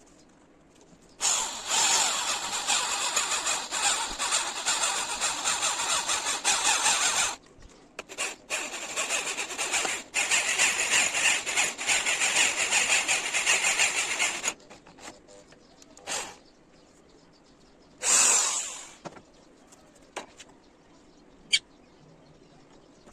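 Power tool working metal, running in two long stretches with a brief break between them, then one short burst and a single sharp click near the end.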